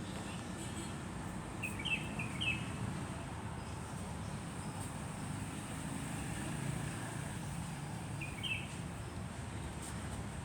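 Steady low rumble of a moving truck, with short bird chirps: a quick cluster about two seconds in and another near the end.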